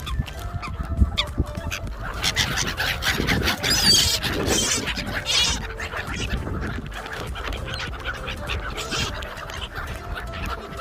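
A crowd of water birds, gulls among them, calling repeatedly while they are being fed.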